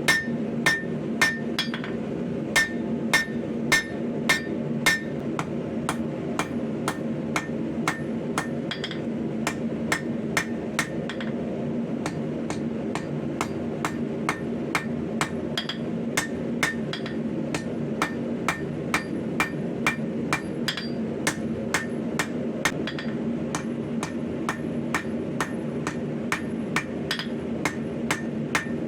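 Steady rhythm of hammer blows forging a 5160 coil-spring steel blade on an anvil, about two to three strikes a second, the first few blows ringing, over a steady low hum.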